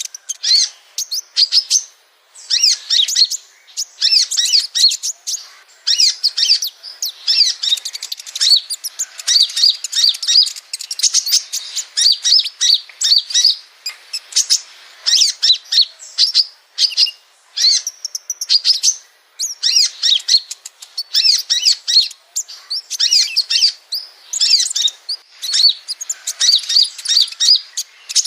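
Sunbirds and spiderhunters (Indonesian 'kolibri') singing: rapid, high, thin chirping and twittering phrases in quick bursts of a second or two, separated by brief pauses, used as a training song for caged sunbirds.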